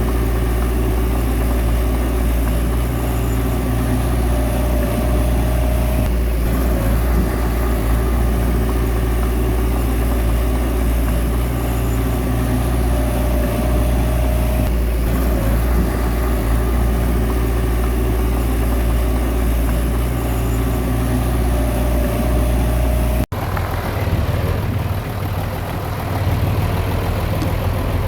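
Heavy diesel engine of a bulldozer running steadily, with a faint high whine that comes back about every eight seconds. About 23 seconds in, the sound breaks off for an instant and resumes with a rougher engine note.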